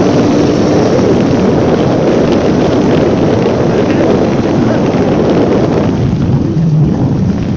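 Wind rushing over a phone's microphone on a moving motorcycle, with the bike's engine running underneath; the rushing thins out about six seconds in.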